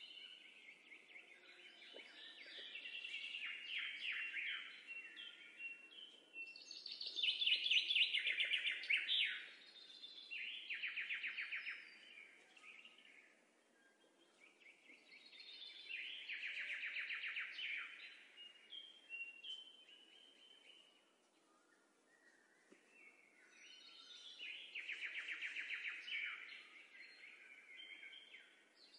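Songbirds chirping and trilling in fast runs of high notes. The song swells and fades in several waves a few seconds long.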